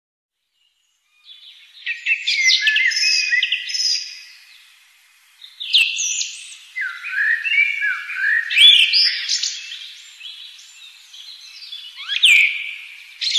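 Birds singing: quick phrases of high, rapidly rising and falling notes, overlapping one another, starting about a second in, with a short lull near the middle.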